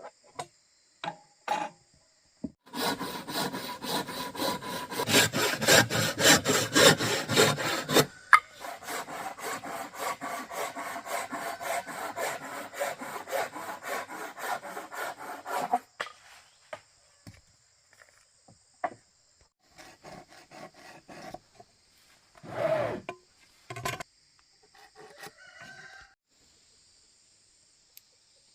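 A hand tool working wood in rapid, even back-and-forth strokes, in two long bouts with the first one louder, followed by scattered knocks and handling of wood. Insects drone steadily in the background.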